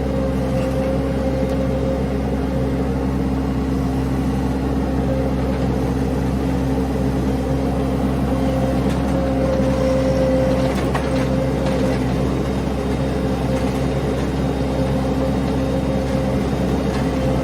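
Vehicle engine running steadily at an even pitch, with a slight swell about ten seconds in and a few faint clicks soon after.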